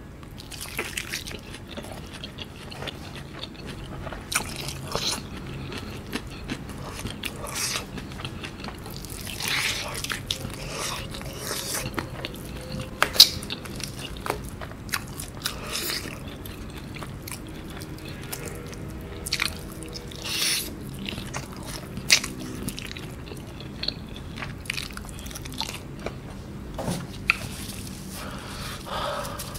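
Close-miked biting and chewing of sauce-coated fried chicken: irregular wet mouth sounds and sharp clicks.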